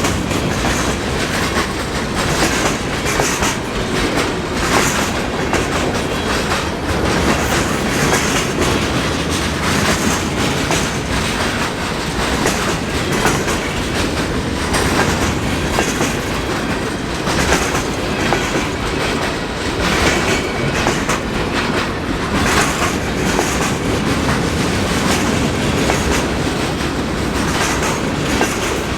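Freight cars of a long mixed freight train rolling past close by, with a steady loud rumble and irregular clacks from the wheels over ice-coated rails.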